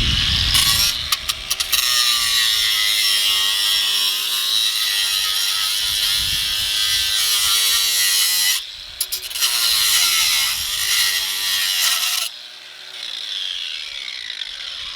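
Battery-powered cutting tool cutting sheet-steel tabs out of a BMW E36 engine bay, its pitch wavering under load. It stops briefly a little past halfway, cuts again, then runs on quieter near the end.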